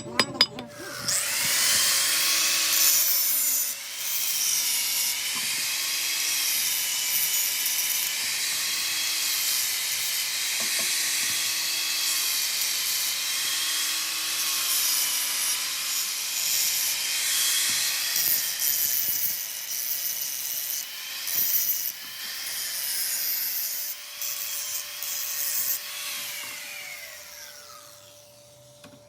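Handheld electric power tool, such as a grinder or sander, running against a metal suspension part with a rough hiss and a wavering motor whine. It starts about a second in and spins down near the end.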